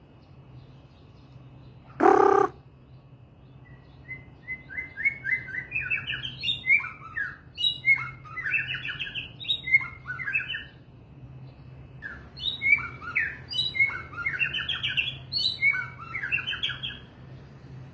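A songbird singing two long runs of quick, varied whistled phrases with a short pause between them. About two seconds in there is a short, loud, harsh sound, and a steady low hum runs underneath.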